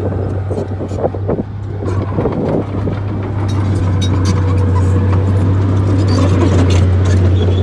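Bulldozer's diesel engine running with a steady low drone, overlaid by scattered knocks and clatter; it grows louder about two seconds in.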